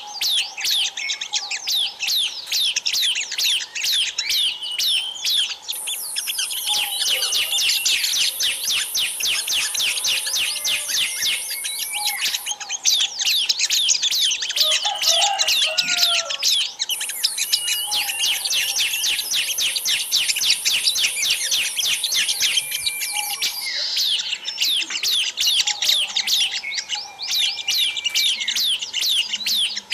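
Bird-lure recording of many small wild birds chirping at once: a dense run of rapid, falling chirps with scattered longer whistled notes. A steady high buzz joins in twice for several seconds each time.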